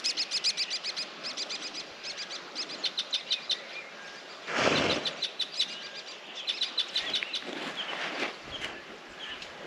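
Birds chirping in quick runs of sharp, high notes, several runs one after another. A brief rushing noise cuts in about halfway through.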